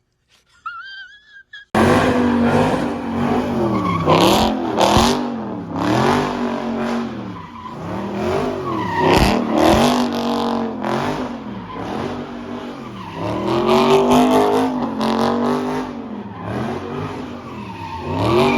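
A car spinning its tyres on a wet lot in a burnout or doughnuts: the engine revs up and down over and over, about every second or two, with tyre squeal. It starts suddenly a little under two seconds in.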